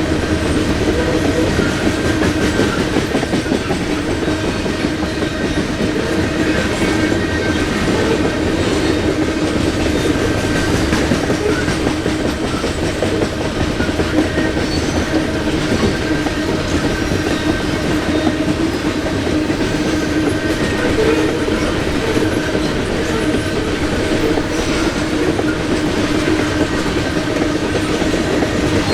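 Freight train cars rolling steadily past, steel wheels on the rail, with a constant ringing tone over the rumble and no letup.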